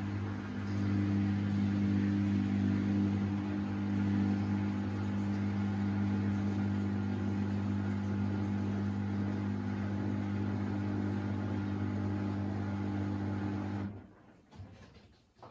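Samsung WD70T4047CE washing machine's drain pump humming steadily as it pumps out the wash water, then cutting off suddenly near the end, followed by a faint click or two.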